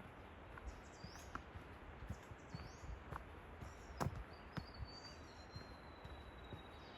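Forest birds whistling, with short high rising notes and one long, slightly falling whistle in the second half. Footsteps crunch on the forest track, one heavier step about four seconds in.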